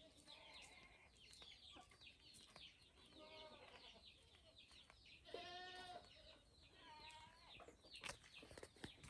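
Faint farmyard sounds: small birds chirping continuously while farm animals give three short pitched calls, the loudest about midway. A few sharp clicks come near the end.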